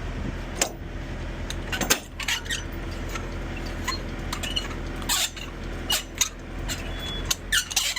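Irregular light metallic clinks and rattles of metal parts being handled, over a steady low hum.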